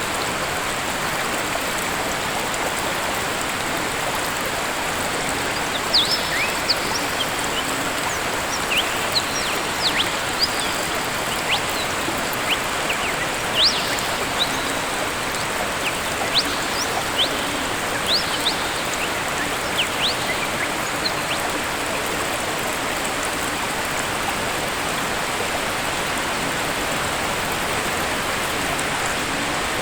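Waterfall rushing steadily, with a bird chirping repeatedly from about six seconds in to about twenty seconds in.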